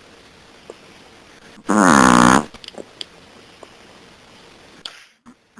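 A sleeping Chihuahua snoring: one loud snore lasting under a second, about two seconds in, with only faint breathing noise around it.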